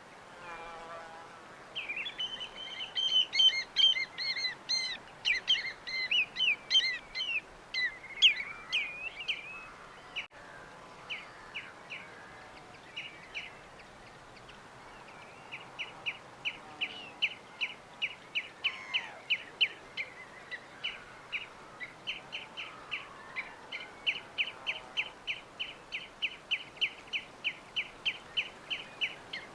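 Small birds chirping. A burst of overlapping, chattering calls lasts several seconds; after a short lull, a bird repeats one quick chirp about three times a second for over ten seconds. A faint steady hiss lies underneath.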